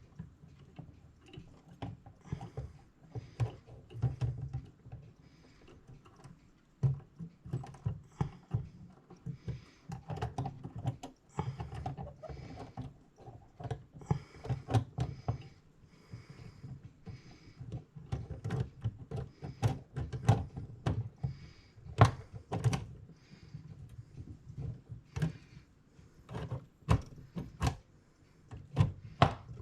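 Irregular clicks and taps of small metal clock parts and tools, with handling knocks and rubbing, as a mechanical clock movement's wheels and plates are fitted together. The sharpest clicks come in the second half.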